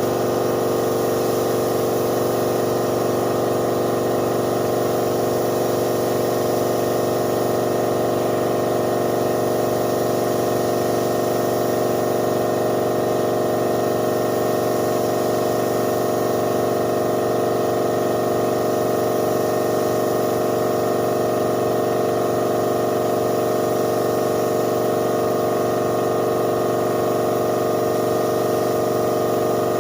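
Air compressor of a spray-painting setup running steadily, a constant motor hum with hiss and no change in pace.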